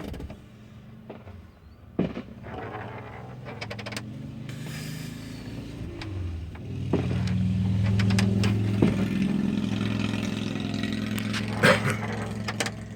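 Car engine running steadily, growing louder about seven seconds in, with a few sharp bangs over it.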